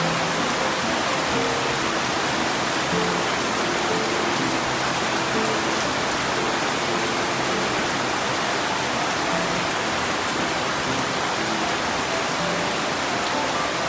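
Steady rain falling in a garden, an even hiss with no let-up. Short low pitched notes come and go scattered through it.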